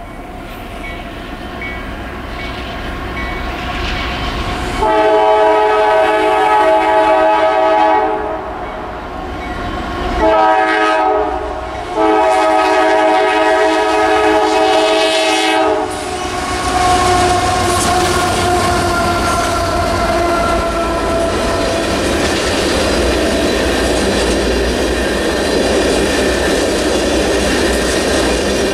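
CSX freight locomotive horn sounding a long blast, a short one and another long one, the close of a grade-crossing signal. After it, the GE locomotives rumble past and the freight cars' wheels clatter over the rail joints in a steady loud rush.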